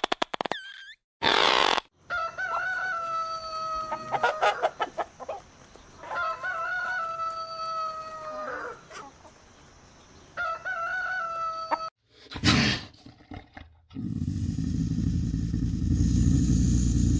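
A rooster crowing three times, each crow a long held call of about two seconds, with short clucking sounds between the crows. Near the end a steady low noise takes over.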